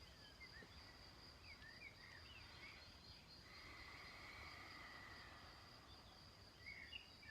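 Faint countryside ambience: scattered short bird chirps over a steady high insect trill, with one longer held note in the middle.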